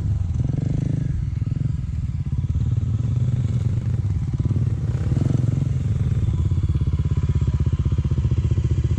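Off-road motorbike engine running while the bike is ridden in a muddy rut. The revs pick up briefly about half a second in and again about five seconds in.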